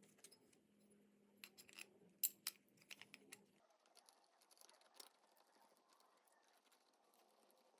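Faint, scattered light clicks and taps, a cluster of them between about one and a half and three and a half seconds in, over a faint steady hum that stops about three and a half seconds in.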